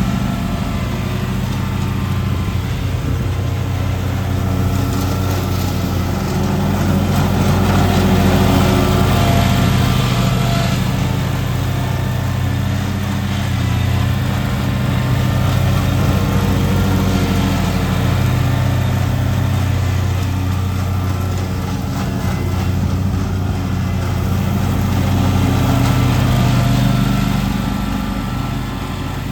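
Lawn mower engine running steadily under load, its level rising and falling slowly as it moves across the lawn.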